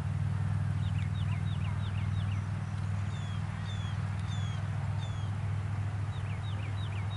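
A songbird singing: runs of short falling whistles, repeated in phrases, over a steady low hum.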